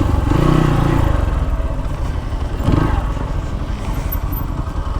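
Dirt bike engine running under throttle off-road, with a rev about half a second in and a shorter throttle burst near the middle.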